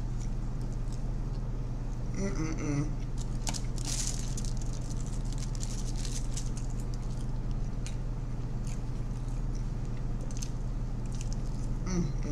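Close-miked chewing and mouth clicks of someone eating pizza, with a slice being pulled from the pie around the middle, over a steady low electrical hum. A brief hum of the voice comes about two seconds in and again near the end.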